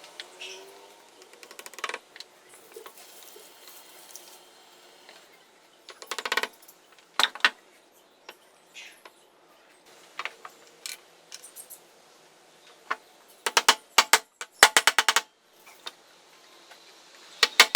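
Small metal parts clinking and clicking in short, irregular clusters, with quiet gaps between them; the densest run of rapid clicks comes about two-thirds of the way through.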